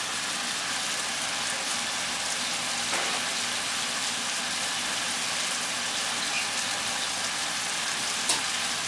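Onions and tomatoes frying in a pan, a steady sizzling hiss, with one sharp click near the end.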